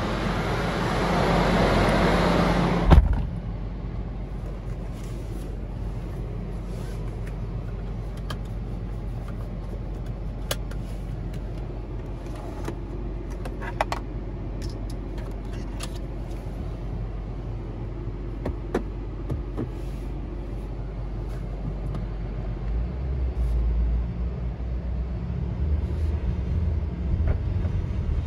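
Inside the cabin of a BMW M5 Competition, a loud rushing hiss stops with a thump about three seconds in. The 4.4-litre twin-turbo V8 then idles as a low hum under a few single clicks of cabin buttons. Its rumble grows near the end as the car pulls away.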